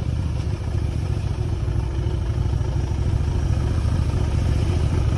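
Motorcycle being ridden, its engine running at a steady pace with a continuous low rumble.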